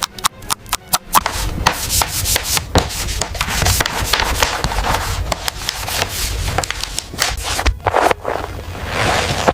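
A quick run of sharp clicks, about five a second, then from about a second in, steady abrasive rubbing in repeated strokes, in the manner of hand sanding, with a few short breaks near the end.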